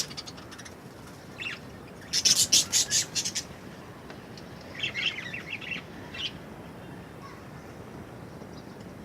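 Budgerigars chirping: a quick run of sharp, high chirps about two seconds in, lasting over a second, then shorter, softer bursts of chirping around five and six seconds.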